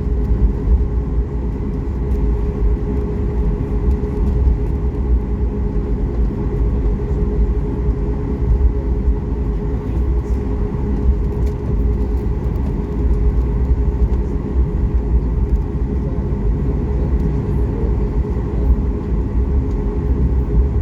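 Cabin noise of a Ryanair Boeing 737 MAX 8-200 taxiing after landing: a steady low rumble with a steady hum from its idling CFM LEAP-1B engines.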